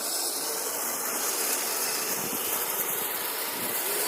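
Electric radio-controlled tracked snow vehicle (Kyosho Blizzard) driving through snow: a steady whir of the motor and gears under a hiss of the tracks churning snow.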